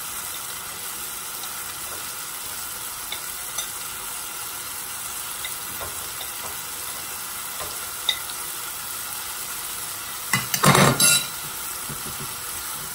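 Chicken and tomato frying in oil in a saucepan, sizzling steadily while spices are spooned in and stirred. A brief loud clatter of utensils comes about ten seconds in.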